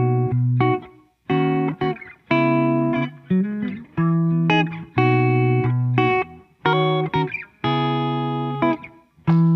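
Background music: electric guitar chords, each struck and held for about a second, then cut short before the next.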